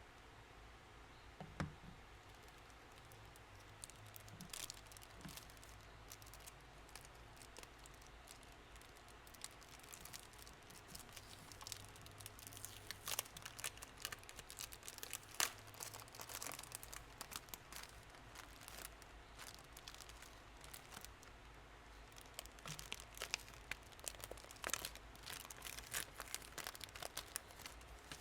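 Crinkling and small tearing sounds of paper craft materials being handled for journal decorating: scattered crackles that come in busier spells around the middle and near the end, over a faint steady low hum.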